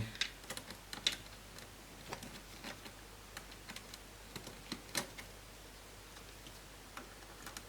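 Irregular light clicks and ticks of a small hand screwdriver and plastic laptop parts as screws are backed out of a screen hinge, a sharper click about a second in and again about five seconds in.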